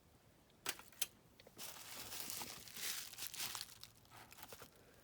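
Two light clicks, then about two seconds of faint crinkling and rustling of wrapping material being handled, with a few small ticks near the end.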